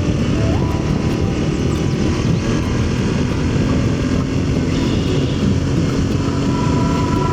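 Aprilia Tuareg 660's parallel-twin engine running at a steady cruise, buried under heavy wind rush on the helmet microphone.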